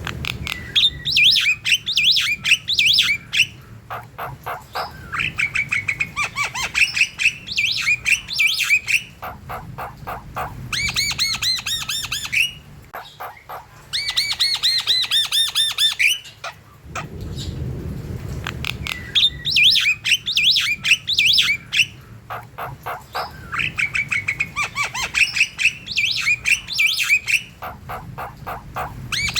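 Javan myna (jalak kebo) singing busily: rapid trains of clicking notes and harsh squawks alternate with higher whistled chirps and glides, in phrases a few seconds long. The same run of phrases comes round again about halfway through.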